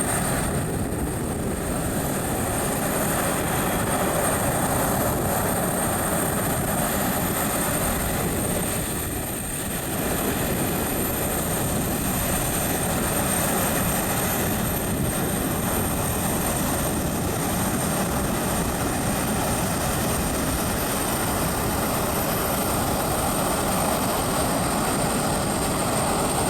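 Jet airliner engines running steadily, a continuous rush with a thin high whine over it.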